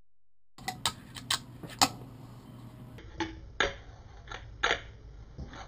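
Fingerboard tricks: the deck's tail popping and the small board clacking as it lands and grinds, a quick run of sharp clicks. A few more clacks follow, spaced about half a second apart.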